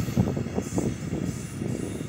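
Container freight train rolling away over the rails: a low rumble of wagon wheels with a run of irregular knocks from the wheels on the track.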